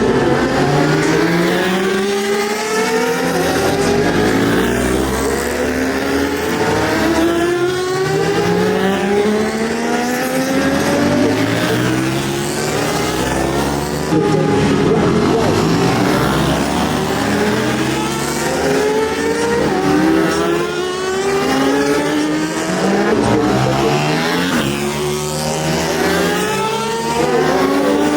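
Several racing superbikes at full throttle, their engine notes rising again and again through the gears with a drop at each gear change, the bikes overlapping one another.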